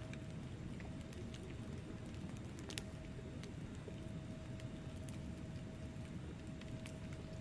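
Wood fire crackling in a fireplace: a low steady rumble of burning with scattered sharp pops, the loudest a little under three seconds in.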